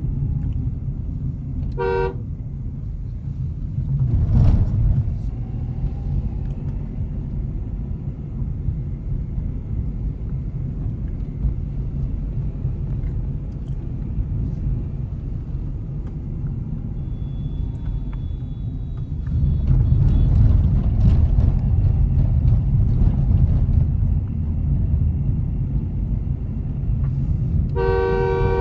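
Nissan Magnite driving on a winding hill road: a steady low rumble of engine and tyres, louder for a few seconds about twenty seconds in. A car horn sounds in two short honks, about two seconds in and again near the end.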